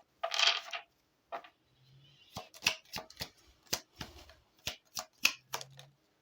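Deck of oracle cards being shuffled by hand: a brief rustle, then a quick run of sharp card clicks and snaps from about two seconds in.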